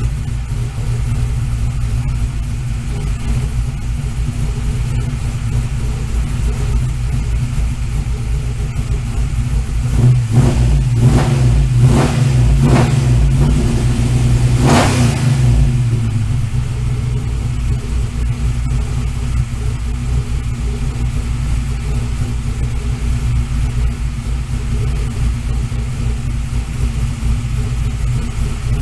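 1965 Ford Falcon engine running on its first startup, a steady low idle. About ten seconds in it runs louder for a few seconds, with four or five sharp cracks, the loudest near the middle, then settles back to idle.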